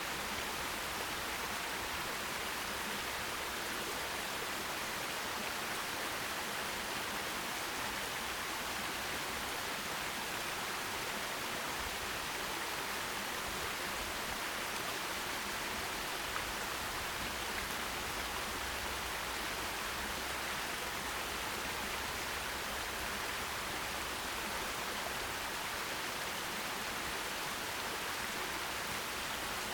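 Forest stream running over stones, a steady even rush of water with a bright hiss and no breaks.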